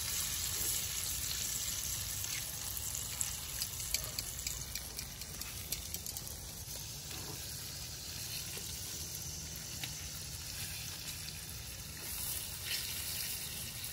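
Egg-and-flour-coated perch pieces frying in oil in a small pan: a steady sizzle.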